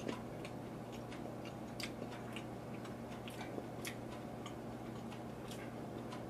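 Faint, closed-mouth chewing of a jelly bean: soft, irregular sticky clicks about two or three times a second, over a steady low hum.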